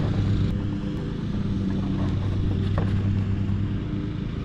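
A steady low motor drone, like a running engine, with a few small faint clicks.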